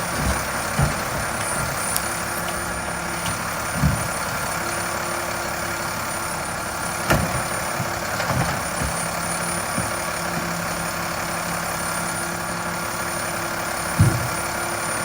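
Mack LEU recycling truck running at work, with a low hum that comes and goes and several sharp thuds and bangs, the loudest near the end.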